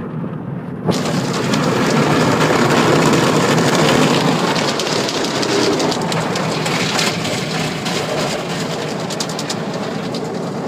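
Automatic car wash spraying water over the car, heard from inside the cabin as a loud, steady, rain-like rush that starts suddenly about a second in.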